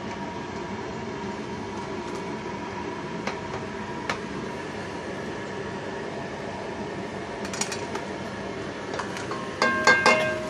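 Metal clinks and rattles of a wire bird cage being handled: a few light clicks, then a louder cluster of ringing metallic clinks near the end, over a steady background hiss.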